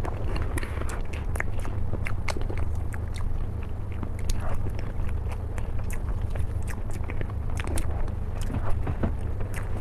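A person eating soft mousse cake: mouth sounds of chewing with frequent short sharp clicks, over a steady low hum.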